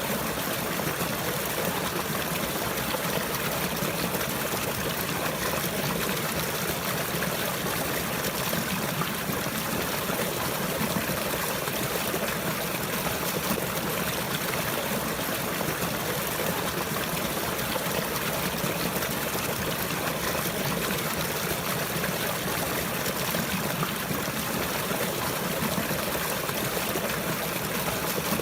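Running water flowing steadily, a continuous even rush like a stream.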